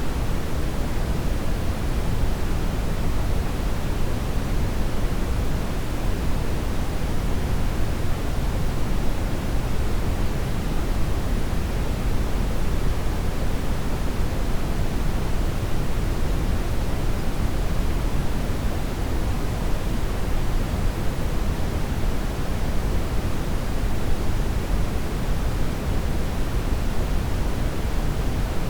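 Steady brown noise: an even, unchanging hiss weighted heavily toward the low end.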